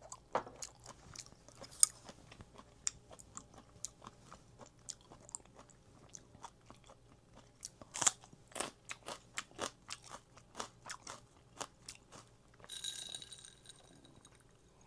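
Close-up mukbang chewing: crunchy, wet bites of food at about three chews a second, with a louder crunch about 2 s in and again about 8 s in. A short scraping or rustling sound comes near the end.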